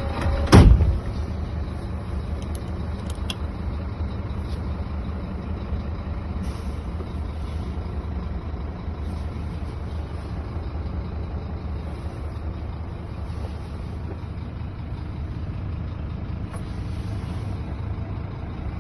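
Scania P230 truck idling with a steady low hum. There is one short, loud blast about half a second in.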